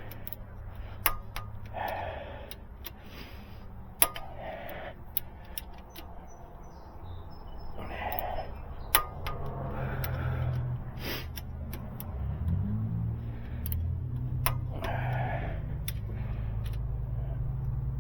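A steady low machine hum that grows louder and rises in pitch about twelve and a half seconds in, with sharp ticks about once a second over it.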